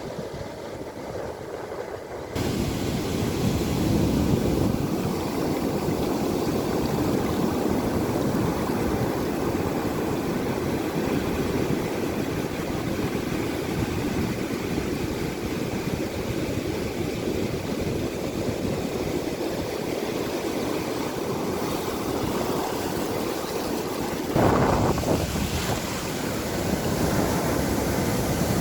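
Wind buffeting the microphone over a steady rush of water and surf, starting abruptly about two seconds in after a quieter motor-like hum. A brief louder gust comes near the end.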